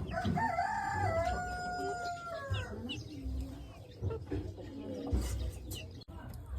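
A Himalayan local rooster crowing once, one long call that drops off about two and a half seconds in, followed by softer clucking from the chickens.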